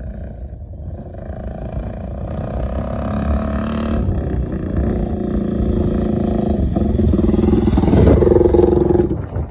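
Quad (ATV) engine running and revving, growing steadily louder as it nears and peaking about eight seconds in, before dropping off sharply near the end.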